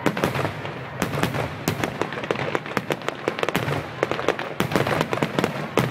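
Fireworks going off in quick succession: dense sharp cracks and pops, several a second, over a continuous crackle, coming in clusters.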